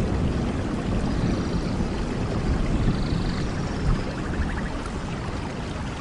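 Steady rain with a low rumble underneath.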